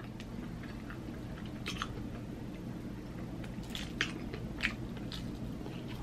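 A person chewing and biting food, with short, soft mouth clicks scattered through, over a steady low hum.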